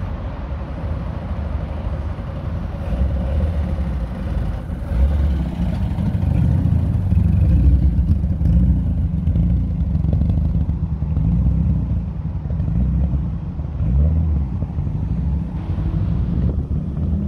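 Classic Mk2 Ford Escort's engine running with a low exhaust note as the car drives slowly past close by, loudest about eight seconds in.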